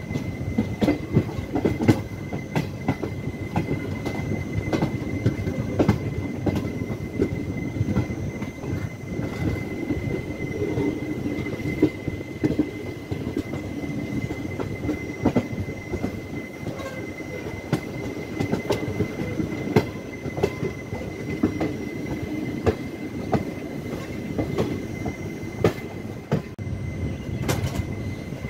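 Passenger express train running on the track, its wheels clattering over rail joints with a steady high-pitched wheel squeal.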